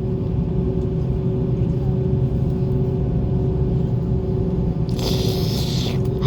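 Aircraft engines running with a steady low rumble and a constant hum while the plane taxis, with a short burst of hiss about five seconds in.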